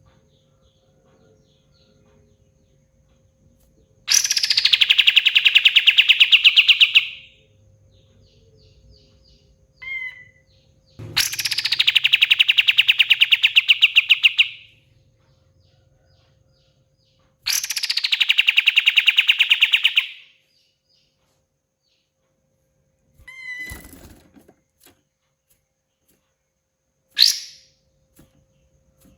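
Kapas tembak bulbul singing loud, fast rattling phrases. There are three of them, each about three seconds long and each opening with a falling high note, with a few short sharp single calls in between.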